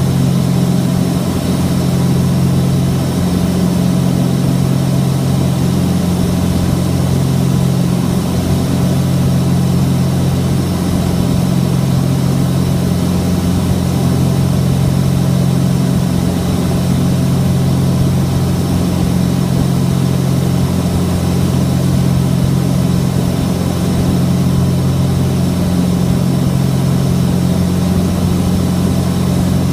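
Cessna 421's twin geared, turbocharged piston engines and propellers running at a steady setting, a constant low drone with two strong hums.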